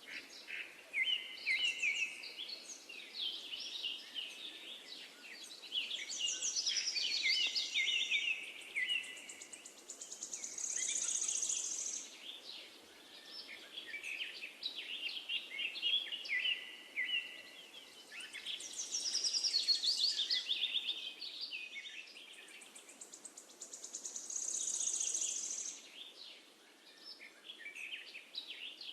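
Several birds singing: a busy mix of chirps, trills and buzzy notes, with the same stretch of song coming round twice, as in a looped nature recording.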